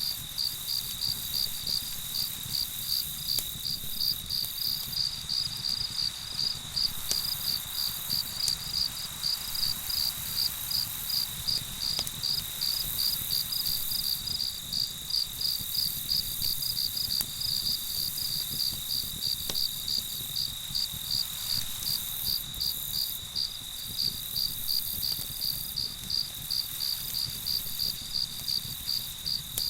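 Crickets chirping at night: a high, steady chirp in an even rhythm over a constant trill. A few faint crackles from a campfire are scattered through.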